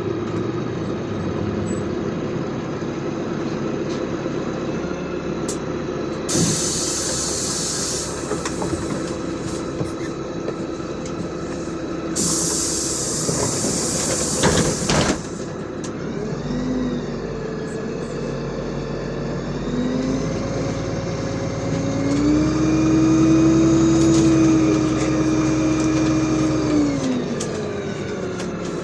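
Inside a LiAZ 5292 city bus: a steady engine rumble with two loud hisses of compressed air being let out, then the bus pulling away, its engine note climbing in pitch in several steps and falling away near the end.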